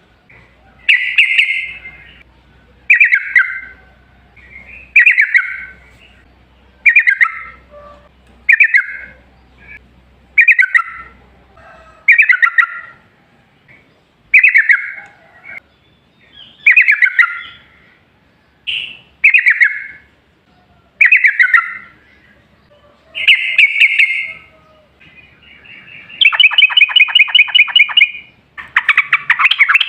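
Yellow-vented bulbul (trucukan) singing: short bubbly phrases repeated about every two seconds, breaking near the end into a long, fast rattling run (the 'ropel' song).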